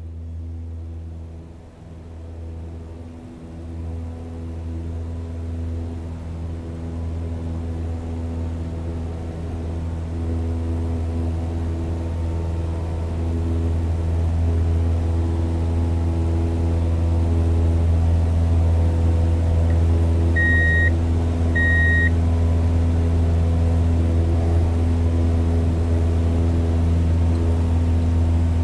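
Steady engine-like drone of a bulldozer with a strong low hum, growing louder through the first half and then holding steady. About two-thirds of the way through come two short, high-pitched beeps.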